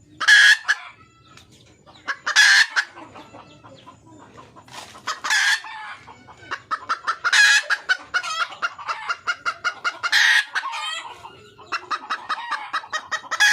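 Wild red junglefowl hen calling to attract a male: six loud short calls about every two to three seconds, with runs of quick, evenly spaced clucks between them in the second half.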